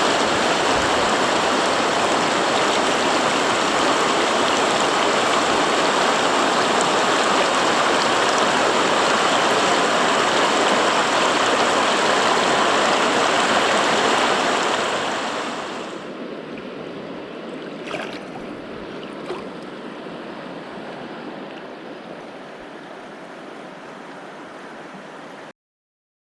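Small mountain stream rushing steadily. About fourteen seconds in it falls away to a much quieter flow, with a couple of faint clicks, and then cuts off abruptly near the end.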